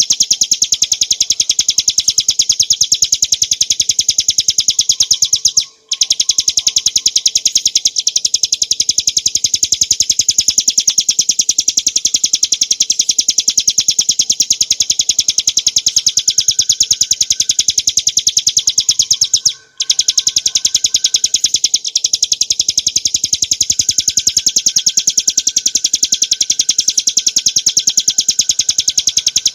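A ciblek gunung (mountain prinia) singing a rapid, unbroken, high-pitched rattling trill, the 'ngebren' drilling song, with two short pauses, about 6 and 20 seconds in.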